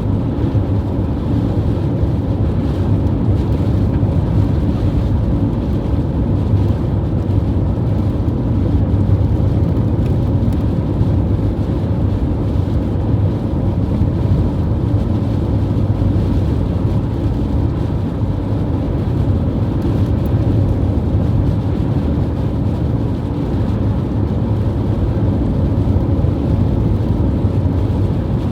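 Strong wind blowing across the microphone: a loud, steady low rumble without breaks.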